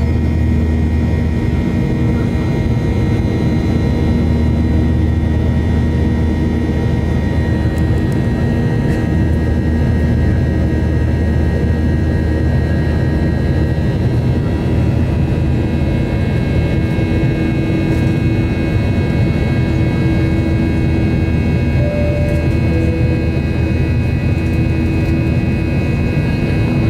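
Cabin noise of a Boeing 737-800 in flight: a steady, loud drone of its CFM56-7B jet engines and the airflow, with several constant whining tones over a deep rumble.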